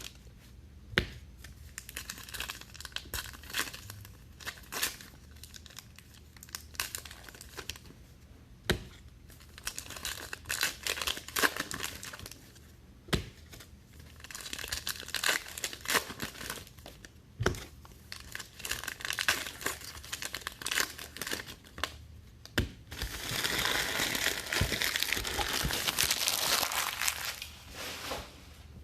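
Foil trading-card pack wrappers crinkling and tearing as packs are ripped open, with sharp clicks from handling the cards. Near the end there is a longer spell of steady crinkling.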